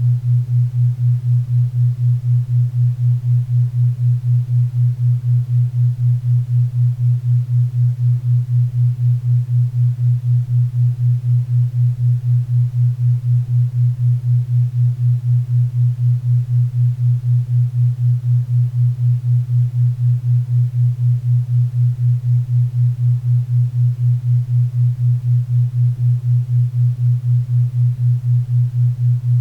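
A 4 Hz theta-wave brainwave-entrainment tone: a low hum pulsing evenly about four times a second, over a faint bed of pink and brown noise.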